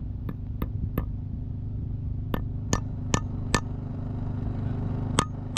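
Light hammer taps on metal, each with a brief ring: two runs of four evenly spaced taps, then one more near the end. These are the taps driving locking screws in to fix the alternator pulley to its shaft. A steady low hum runs underneath.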